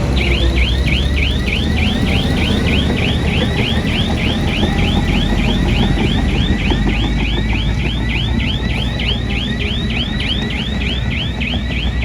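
A heavy machine's reversing alarm sounding as a fast run of falling chirps, about three a second, which starts just after the beginning. Under it a diesel engine runs with a steady low rumble.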